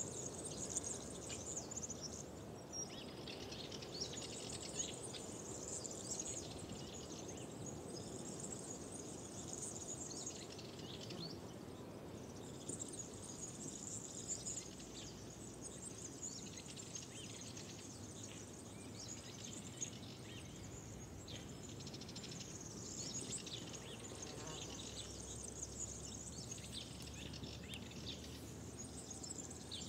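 Many birds singing at once, a dense, continuous chorus of high chirps and trills, over a steady low rush of outdoor background noise.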